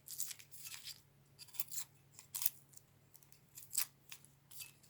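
Small vegetable knife slicing through an onion: a series of about ten crisp, crunchy cuts at irregular spacing.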